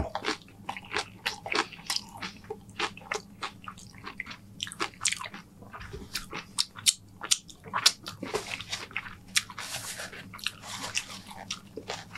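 Close-miked chewing of loaded tortilla-chip nachos, with many sharp crunches as the chips break between the teeth. Near the end there is a few seconds of paper-napkin rustling.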